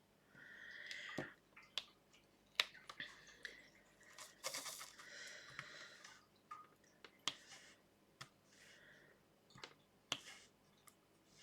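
Faint scattered clicks and soft rustling from small objects being handled, a dozen or so light clicks spread unevenly.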